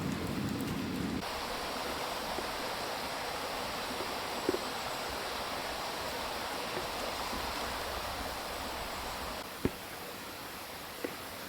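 Steady rushing of a valley stream, with a few faint knocks.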